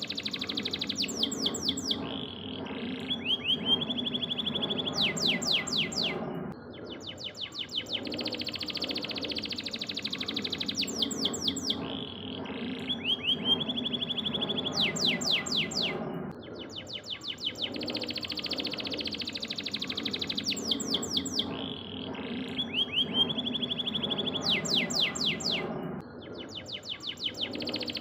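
Domestic canary singing: rapid trills and fast rising-and-falling sweeps, over low background noise. The same song sequence repeats about every ten seconds, as a looped recording does.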